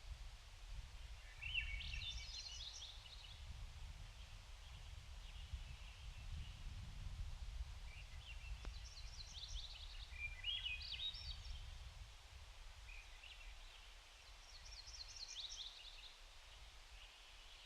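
A songbird singing short, quick, high phrases several times, a few seconds apart, over a steady low rumble of creek water or wind.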